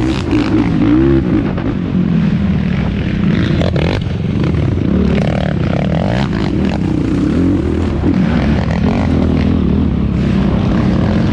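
Yamaha YFZ450R quad's single-cylinder four-stroke engine racing, heard close up from onboard, its revs rising and falling again and again with the throttle. A few sharp knocks come about four seconds in.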